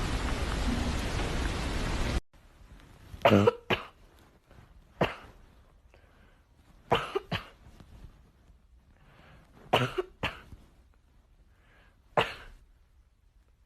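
A steady hiss that cuts off suddenly about two seconds in, followed by a series of short coughs, singly or two or three in quick succession, every two to three seconds.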